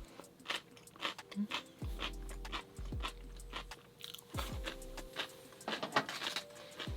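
A person chewing crunchy dongchimi radish close to the microphone, with repeated crisp crunches, over soft background music.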